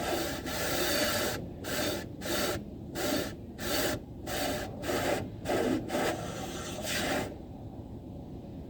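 Rhythmic rubbing strokes, about a dozen in a row at roughly two a second, that stop about seven seconds in.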